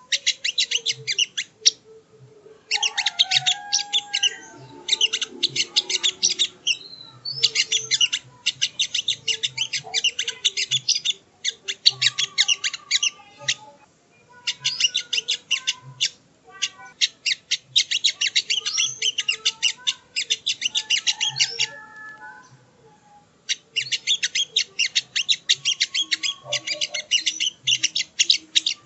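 A sogon (sogo ontong) bird singing: fast, chattering phrases of rapid high notes, each a few seconds long, separated by short pauses.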